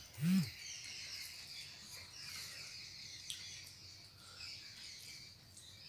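Faint birds chirping in the background, after a short hummed "mm" from a voice right at the start.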